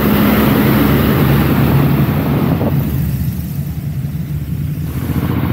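Motor vehicle engine running under a steady hiss of heavy rain. The engine noise eases off about three seconds in and picks up again near the end.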